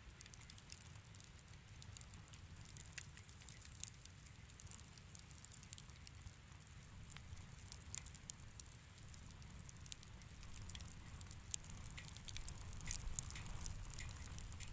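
Wood fire crackling in a fireplace: irregular sharp pops and snaps over a low steady rumble, growing busier and a little louder near the end.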